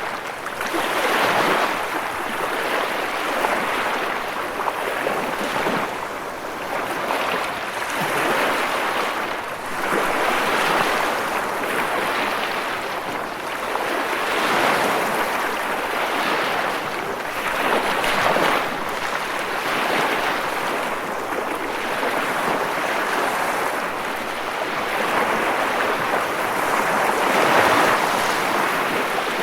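Ocean waves breaking and washing on the shore, a steady rush of surf that swells and eases every few seconds.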